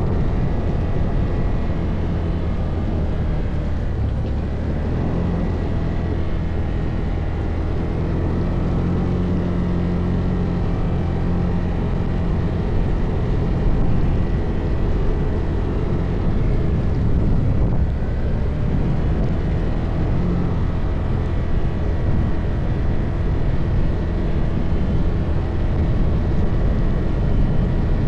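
ATV engine running under way over rough ground, a continuous low drone whose pitch rises and falls a little with the throttle, over a steady rumble.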